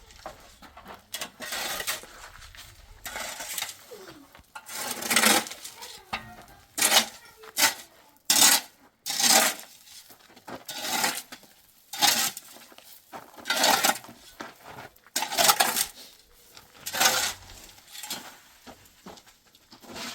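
A metal shovel or trowel scraping through wet cement mortar in repeated strokes, about one every second and a half to two seconds, as the mortar is mixed or worked.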